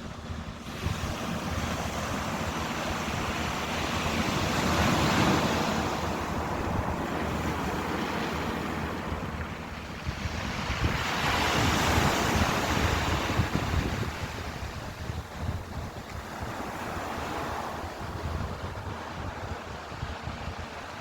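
Ocean surf: waves breaking and washing in, the noise swelling and fading. There are two big surges a few seconds in and near the middle, and a smaller one later.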